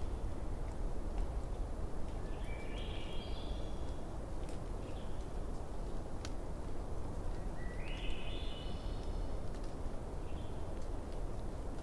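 Campfire burning with a steady low rumble and scattered sharp crackles and pops, one louder pop about halfway through. A bird twice sings a quick run of high notes that climb step by step in pitch, a few seconds apart.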